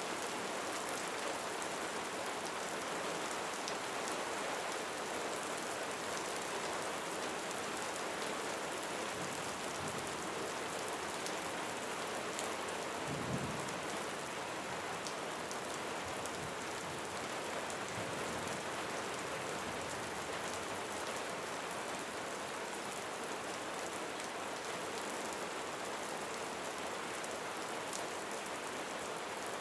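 Steady rain falling on a roof, an even hiss of drops, with a brief low rumble of distant thunder about halfway through.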